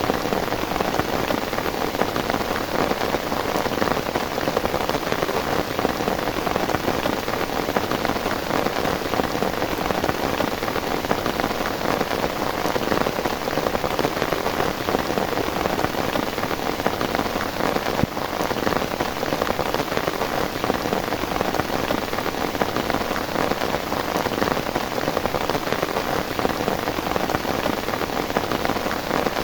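Heavy rain falling steadily, a dense even patter of drops on a surface.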